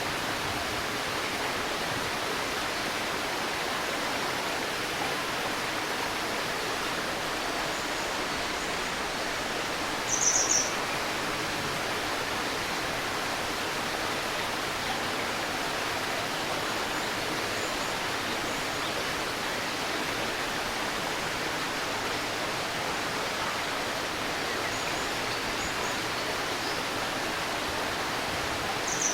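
Steady murmur of a shallow stream flowing over stones, with brief high bird chirps: a louder one about ten seconds in, another near the end, and a few faint ones between.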